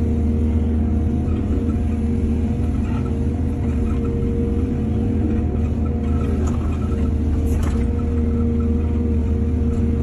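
Excavator's diesel engine running steadily under load, a deep, even rumble with a held tone, and a brief knock about three-quarters of the way through.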